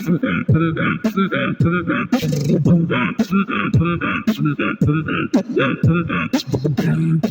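Human beatboxing: fast vocal drum sounds, sharp clicks and pops, mixed with sung, bending bass and melody tones, all made with the voice alone.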